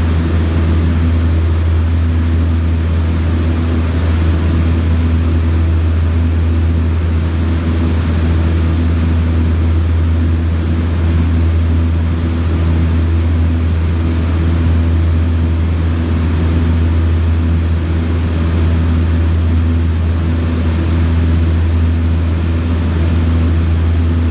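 Propeller aircraft engines running steadily with a deep, constant drone.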